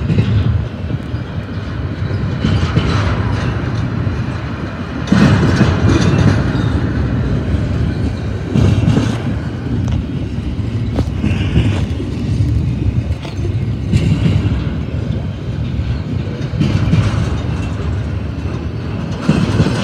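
Heavy double-stack container freight train rolling past, its steel wheels rumbling and clattering on the rails, with louder clattering surges every few seconds.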